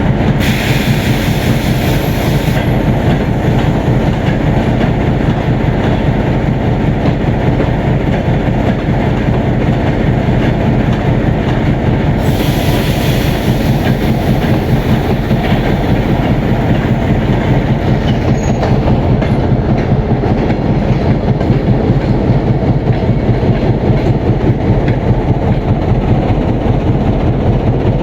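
A long passenger train rolling slowly into a station platform, its wheels clattering steadily over the rail joints, with brief stretches of high-pitched wheel or brake squeal near the start and about twelve seconds in.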